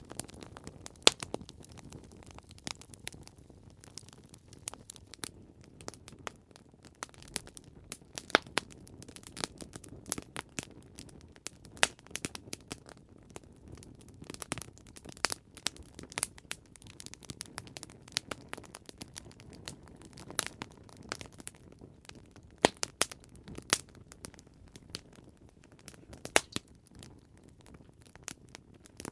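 Wood campfire crackling: irregular sharp pops and snaps, several of them louder, over a low steady rush of flame.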